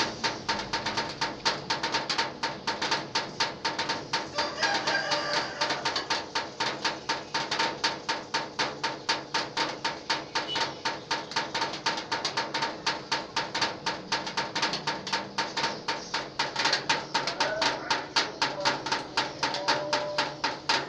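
Rainwater drops from a roof leak striking a corrugated zinc sheet: a steady, rhythmic tapping of about three to four drips a second, melodious and like a drum band.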